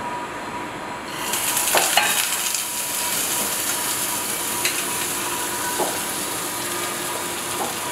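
Sweetbread searing in oil in a hot frying pan on a gas hob, sizzling steadily from about a second in, with a few light knocks.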